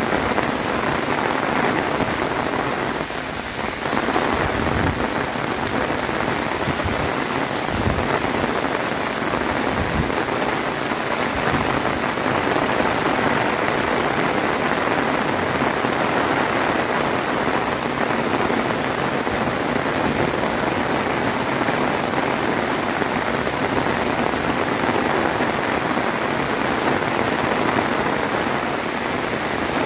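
Heavy rain falling steadily, with a few low thuds in the first ten seconds.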